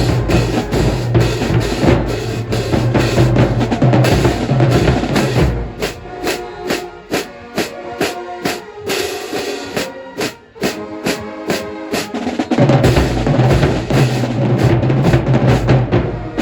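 Marching band playing with brass and a drumline. About a third of the way in, the low brass drops out and the drums carry a quick, even beat with horns over it for several seconds; then the full band with its low brass comes back in near the end.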